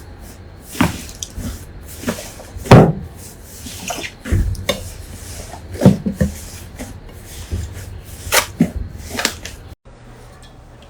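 Slime being squeezed and poked by hand, giving irregular wet squishes and pops, the loudest nearly three seconds in. Near the end the sound cuts off abruptly to a quieter, different background.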